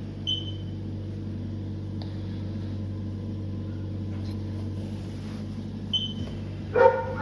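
Steady low electrical hum of equipment in the operating room, with a short high beep near the start and again about six seconds later.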